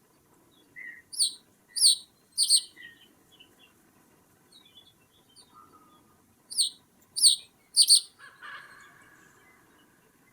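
Wild bird calling: two series of three sharp, steeply falling calls, the first about a second in and the second about six and a half seconds in, with faint scattered chirps between them.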